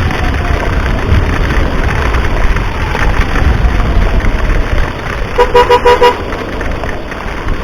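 Wind rumble and road noise from a scooter riding in the rain, with a siren's slow falling wail faintly behind. About five seconds in, a two-tone horn beeps four quick times.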